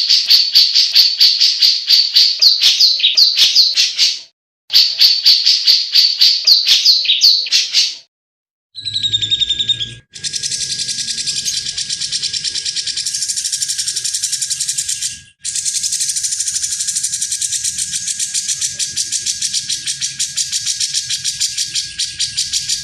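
Grey-cheeked bulbul (cucak jenggot) singing: two bursts of rapid repeated high notes, then from about ten seconds in a long, dense, very fast trill with one brief break.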